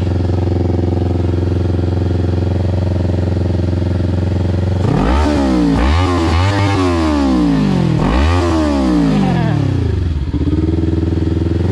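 Motorcycle engine idling steadily, then revved several times in quick blips from about five seconds in, each rising and falling in pitch, settling back to idle near the end.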